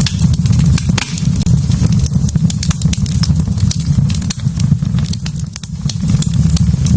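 Wood fire burning in a fireplace, crackling and popping with many sharp, irregular snaps over a steady low rumble.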